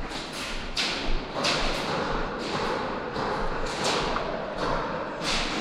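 Irregular thuds and short swishing bursts from an airsoft game in play, a few each second over a steady low rumble.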